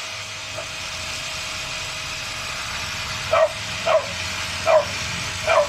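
Angle grinder running steadily on a knife blade, giving a constant hiss with a faint hum. About halfway through, a dog barks four times in quick succession.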